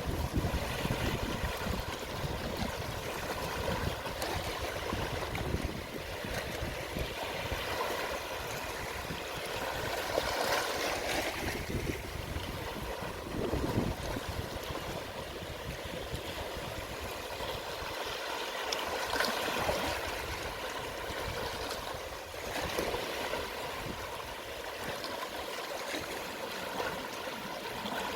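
Gentle sea waves at low tide, washing in and trickling back over the shore in a steady wash that swells several times.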